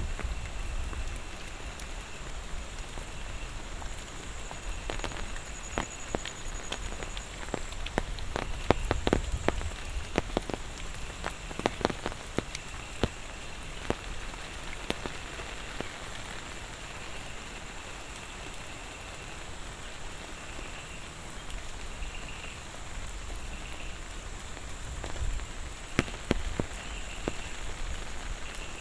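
Steady monsoon rain falling, with sharp drops tapping close by, thickest from about eight to twelve seconds in and again near the end. A faint, high, steady tone runs through it.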